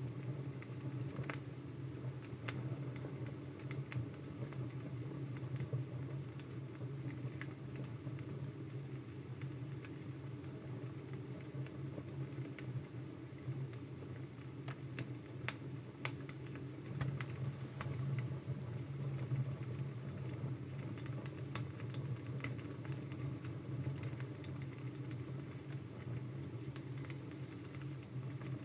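Wood fire crackling: scattered sharp snaps and pops over a steady low rumble.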